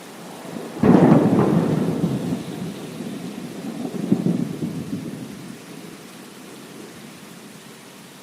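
A thunderclap breaks sharply about a second in and rolls on as a rumble that swells again near the middle, then fades, over steady heavy rain.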